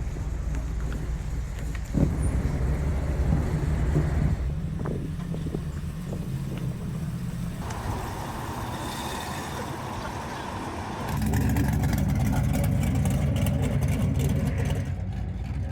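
Car engines running close by with a low, steady rumble; about eleven seconds in a louder engine rumble comes in.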